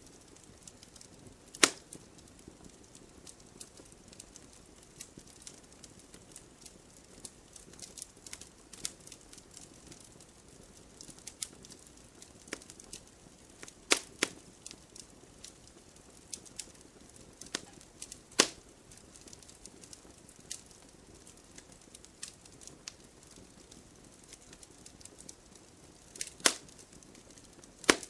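Wood fire crackling: a steady scatter of small snaps with a few loud sharp pops, about 2 s, 14 s, 18 s and twice near the end.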